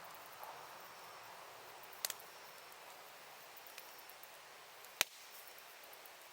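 Campfire burning with a low hiss and occasional sharp crackles and pops of the wood: a quick double pop about two seconds in and the loudest single pop about five seconds in.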